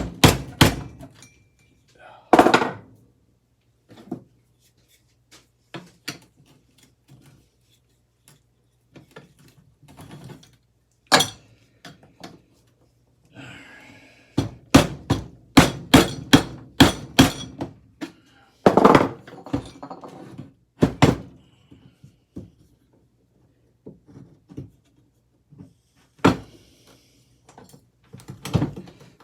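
Hammer blows knocking at a ceiling fan's metal parts during teardown: scattered single knocks, a quick run of about eight strikes in a row about halfway through, then a few more knocks.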